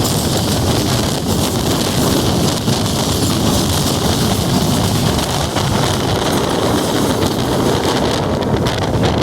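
Steady rushing noise of a moving passenger train, with wind buffeting the microphone.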